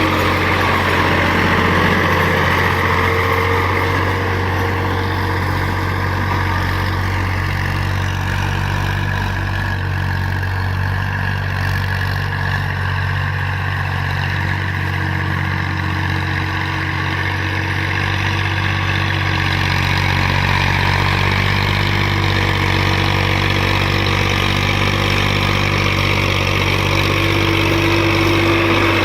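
Tractor engine running steadily under load while pulling a cultivator through a field. It eases a little in the middle and picks up again near the end.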